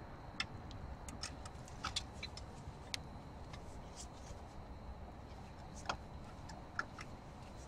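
Faint, scattered light clicks and taps, about a dozen at irregular intervals, over a low steady background rumble.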